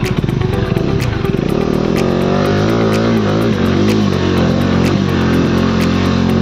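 Motorcycle engine running, its rapid firing pulses giving way about two seconds in to a steadier tone that wavers up and down in pitch.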